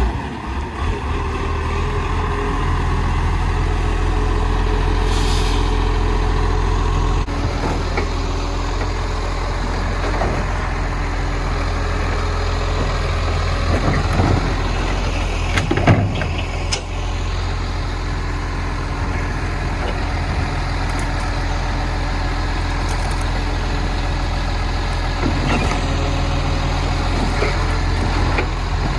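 Garbage truck's diesel engine running steadily, with a short air hiss about five seconds in and a few sharp knocks and clanks, the loudest about sixteen seconds in.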